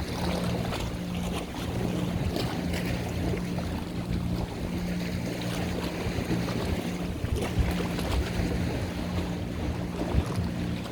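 Boat engine running steadily with a low hum, with water splashing and wind buffeting the microphone.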